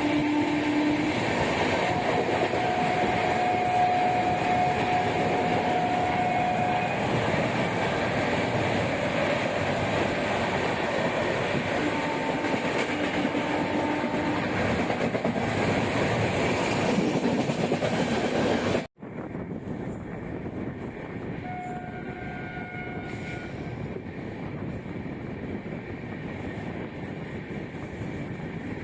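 Express passenger train running at speed, heard from inside the coach: a steady rumble with wheel clatter on the rails. About nineteen seconds in, the sound cuts out for an instant and comes back quieter.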